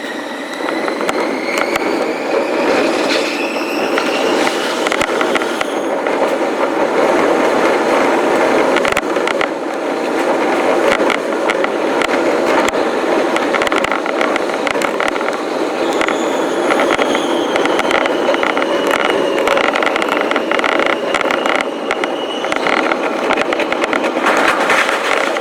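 Electric commuter train running on the rails, with dense wheel-on-rail noise and many quick clicks. A motor whine rises in pitch over the first few seconds, and another, higher whine falls slowly in the second half.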